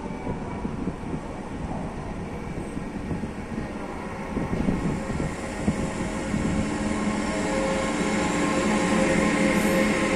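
A class 111Ed (Newag Griffin) electric locomotive hauling a freight train past at low speed, growing louder as it nears. There is a rumble of wheels on rail, and from about halfway through a steady hum with several held tones grows stronger as the locomotive comes alongside.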